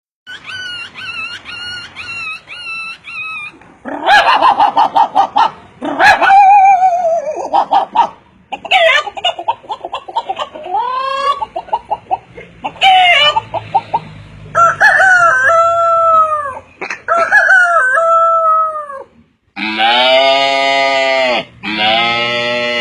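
A string of varied, bird-like pitched calls: about a dozen quick repeated chirps first, then assorted squawks and rising and falling calls, and two long drawn-out calls near the end.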